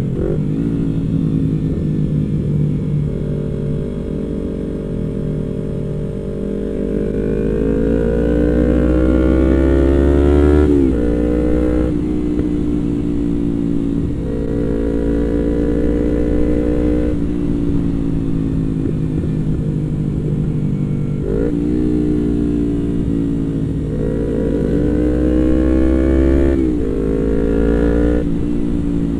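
Yamaha MT-25's 250 cc parallel-twin engine heard from the rider's seat while riding, its revs climbing steadily and then dropping sharply at each gear change, several times over, with wind rumbling on the microphone at speed.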